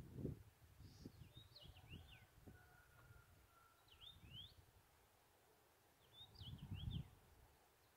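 A songbird singing three short, faint phrases of quick rising and falling whistled notes, spaced a few seconds apart. Low rumbling noise comes and goes under it, loudest just after the start and again near the end.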